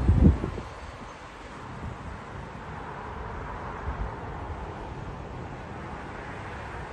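Wind buffeting the microphone in short low gusts at the start and again about four seconds in, over a steady rushing noise.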